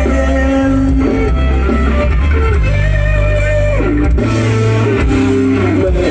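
Loud amplified band music from a Thai rot hae sound truck: an instrumental passage led by electric guitar over heavy bass, with no singing.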